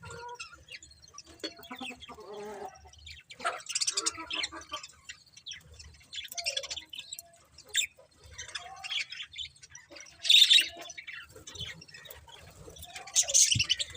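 Budgerigars chirping and chattering in irregular bursts, the loudest about ten seconds in and again near the end.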